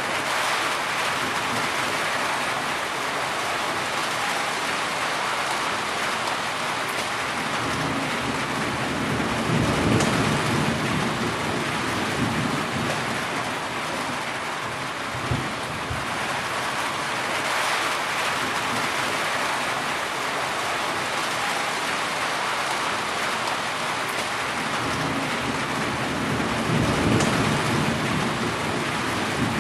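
Heavy rain falling steadily, with low rolls of thunder swelling about eight seconds in and again near the end. A single brief sharp knock about halfway through.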